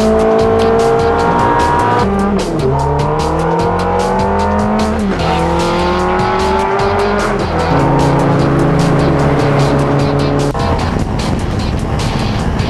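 Sports car engine accelerating hard, its pitch climbing and then dropping sharply at upshifts about two, five and seven and a half seconds in, then holding a steady pitch.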